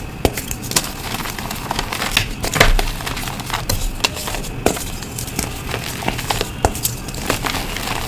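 Re-formed blocks of gym chalk being crushed, crunching and crumbling in a dense run of irregular crackles and snaps.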